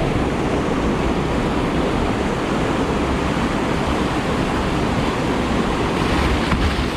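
Whitewater rapid rushing steadily, an even roar of fast river current.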